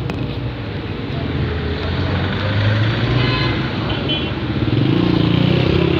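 A car engine running steadily among street traffic noise, growing louder about five seconds in.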